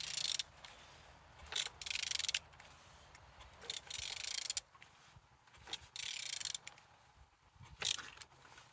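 Renault K9K 1.5 dCi diesel engine being turned over by hand. About five short rasping, hissing strokes come roughly every two seconds as the crankshaft is rotated. The engine turns freely, which is taken as a sign it is not seized.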